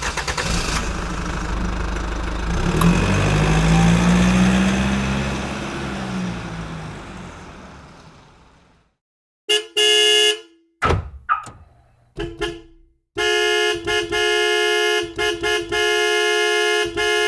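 A noisy engine-like rush that swells and fades away over the first nine seconds, then a horn sounding one steady pitch: a short blast, a few quick toots, and a long blast broken by brief gaps.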